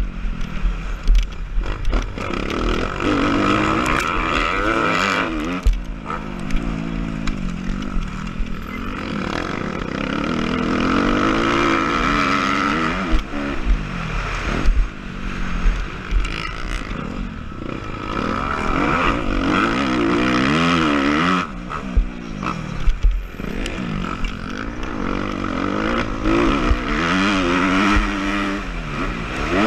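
Motocross motorcycle engine revving up and falling back over and over, its pitch climbing and dropping every few seconds, with sharp knocks and clatter mixed in.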